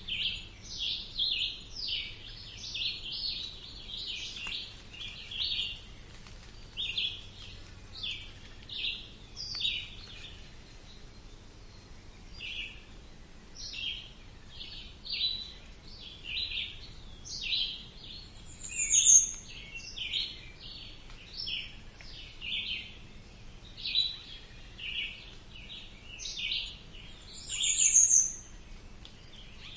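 Several birds singing in woodland, with many short chirps throughout and two louder, higher trills about 19 and 28 seconds in.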